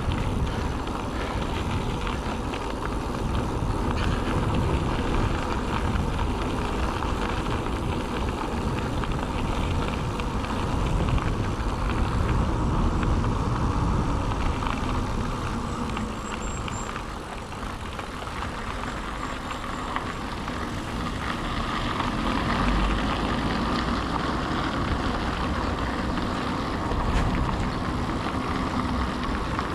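Steady rolling noise of a mountain bike being ridden: tyres running over the ground and the bike rattling, with wind rushing on the microphone.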